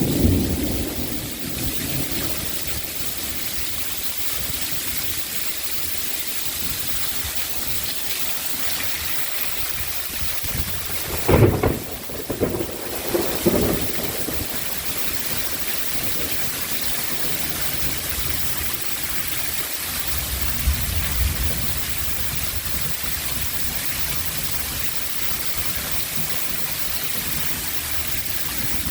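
Heavy rain pouring down steadily in a thunderstorm downpour. Low rumbles of thunder come near the middle and again about two-thirds of the way through.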